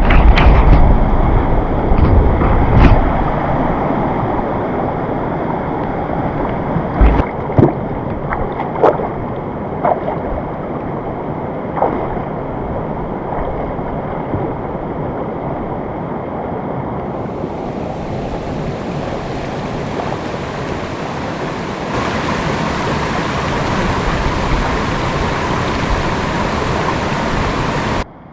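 Rushing water of a waterfall, a steady wash of noise, with a few brief knocks and bumps in the first dozen seconds and a brighter hiss from a little past halfway.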